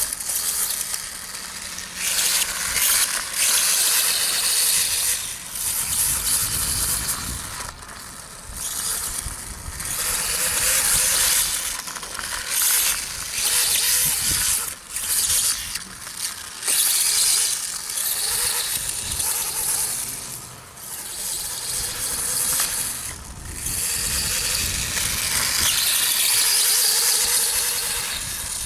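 Electric RC dirt bike running on a dirt track: a high whine and hiss that surges and falls away again and again as the throttle is worked, with short dips in between.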